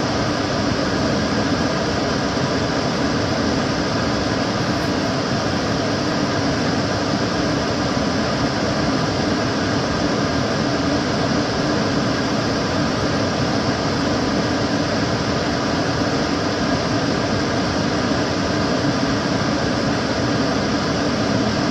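Kitchen cooker hood extractor fan running steadily: an even whooshing of air, heaviest in the low range, with a faint steady hum.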